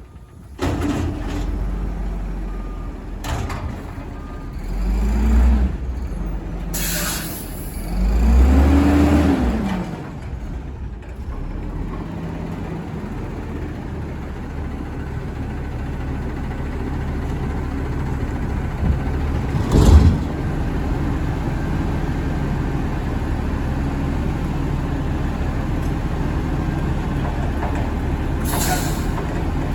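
Garbage truck's diesel engine running, revved up and back down twice, with hisses of released air and one sharp knock about two-thirds of the way through.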